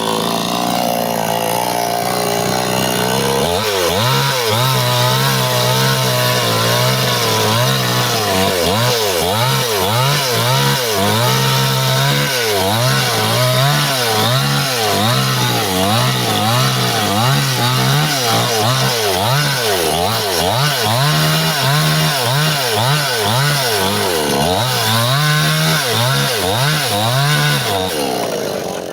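Stihl two-stroke chainsaw cutting through bendo wood, its engine pitch dipping and recovering over and over as the chain bites in the cut. The engine sound falls away at the very end.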